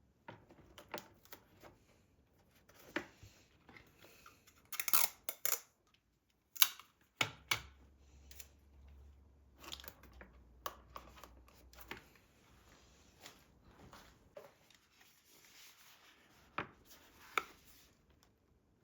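Household handling sounds in a small room: scattered clicks and knocks of things being picked up and set down, busiest around five seconds in, with a low steady hum for a few seconds in the middle.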